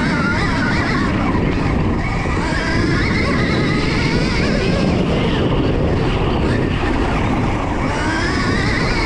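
Stark Varg electric dirt bike being ridden, its motor whine rising and falling with the throttle over a steady rush of noise.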